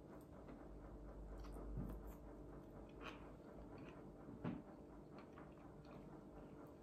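Quiet eating sounds: a person chewing, with faint clicks and two soft knocks, about two seconds and four and a half seconds in.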